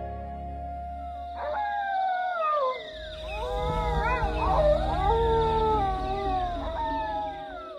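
A pack of wolves howling in chorus: several overlapping voices rise and fall in long glides, starting about a second and a half in, over held notes of background music.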